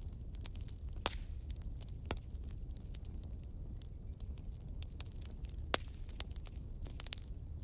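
Campfire crackling: wood burning with irregular sharp pops and snaps over a steady low rumble of the flames. The strongest pops come about one second in, two seconds in and near six seconds, and a faint high whistle rises briefly around three seconds in.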